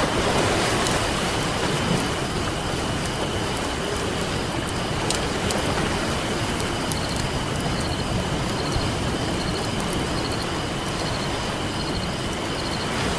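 Campfire crackling, with scattered sharp pops, over the steady wash of ocean waves.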